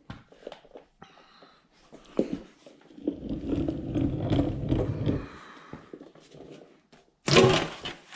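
Leftover transmission fluid pouring and splashing from the loosened HMMWV transmission oil pan for about two seconds, with scattered metallic clicks and knocks of the pan and tools before it.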